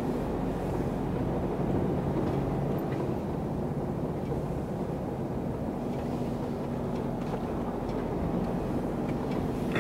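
Truck engine and road noise heard from inside the cab while driving: a steady low drone with a faint engine hum.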